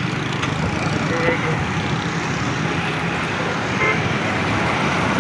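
Motorcycle ride through traffic: steady engine and road noise with wind, and a couple of short horn toots about a second in and near four seconds.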